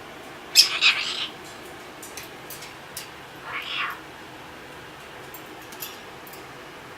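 A cat meowing: a loud, broken call about half a second in, then a single meow that rises and falls in pitch near the middle, with a few light clicks between.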